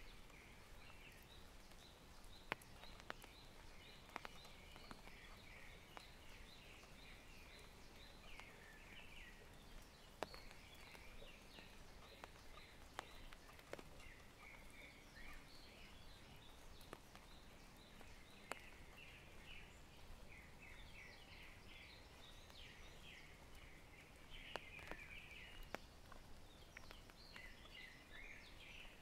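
Small birds calling faintly: bursts of short, high chirps repeated again and again, with a few scattered sharp ticks.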